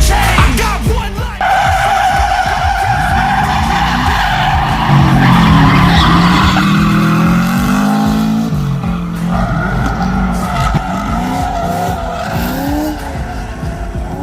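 Drift car's tyres squealing in a long slide, breaking off briefly about nine seconds in and then resuming, with the engine revving up and down beneath.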